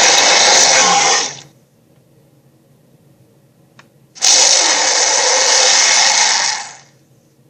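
Sharptooth monster roar sound effect, played twice: a harsh, noisy roar ends about a second and a half in, and a second one starts about four seconds in and lasts over two seconds before fading out.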